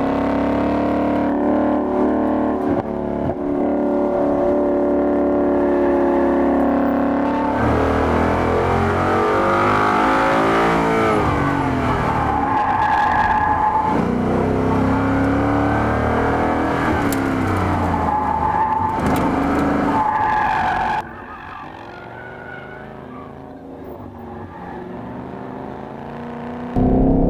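2015 Ford Mustang GT's 5.0-litre V8 driven hard around a tight track, its pitch rising and falling over and over as it accelerates and lifts through the corners. About 21 seconds in it falls much quieter for several seconds, then comes back loud near the end.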